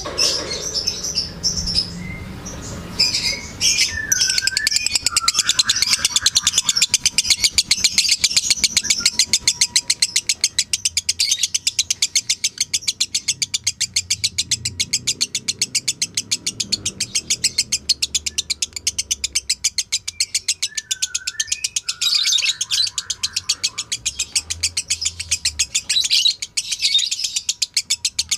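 Lovebird's long, unbroken chattering song ('ngekek'): a rapid, fast-repeating string of sharp high chirps, with lower warbled notes breaking in twice.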